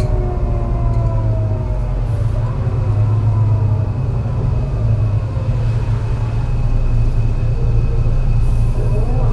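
MAN NL202 CNG city bus engine pulling uphill with a bad misfire, a heavy low rumble under the whine of its ZF Ecomat automatic gearbox. The whine falls in pitch over the first couple of seconds as the bus slows on the climb, and rises again near the end.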